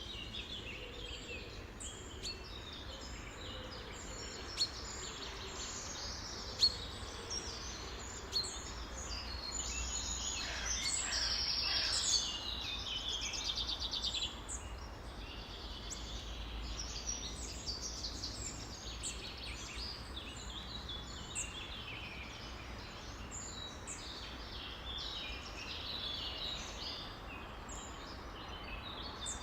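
A dense chorus of many songbirds calling and singing at once, with overlapping chirps and whistles throughout. A louder, rapid rattling trill stands out about ten to twelve seconds in.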